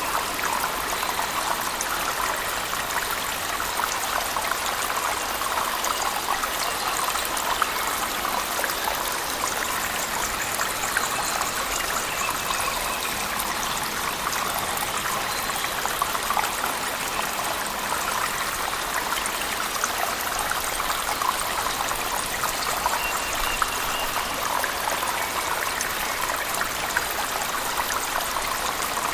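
Steady rushing water of a waterfall in a cave, layered with heavy rain, an even unbroken wash of noise.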